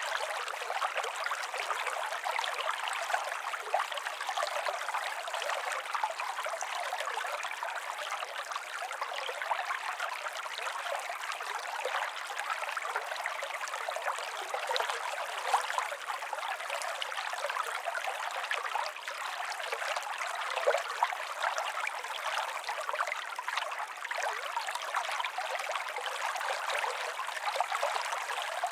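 A small stream running and trickling steadily, a light, thin sound with no deep rumble.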